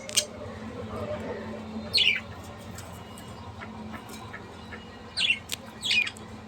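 A bird giving three short squawks, each falling in pitch: one about two seconds in and two close together near the end.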